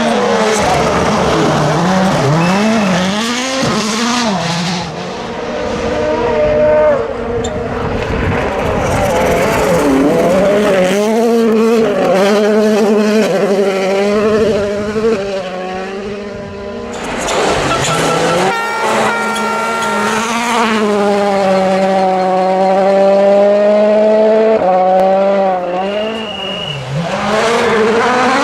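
Rally car engines running hard on a stage: turbocharged four-cylinder World Rally Cars revving, the pitch climbing and dropping again and again through gear changes. The sound breaks off into a rush of noise about two-thirds through before the engine note picks up again.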